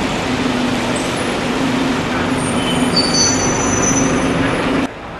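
Train running past with a steady low rumble, joined about two seconds in by thin high-pitched wheel squeal. The sound cuts off suddenly shortly before the end.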